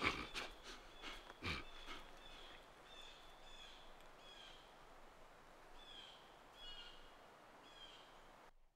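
A bird chirping faintly and repeatedly, short high calls about once a second, after a few soft knocks in the first two seconds; the sound cuts off abruptly near the end.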